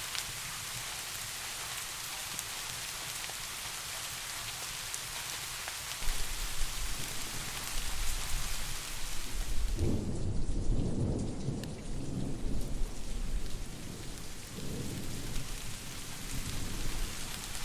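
Steady rain falling, a dense even hiss. About six seconds in a low rumble of thunder starts, swells to its loudest around ten seconds in and keeps rolling in waves, while the rain hiss grows fainter.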